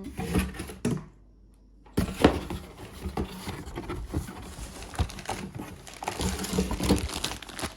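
Handling noise from unpacking a new chainsaw: irregular rustling of packaging with clicks and small knocks of plastic and metal parts. It drops almost out about a second in, then resumes with close, busy clicking and rustling.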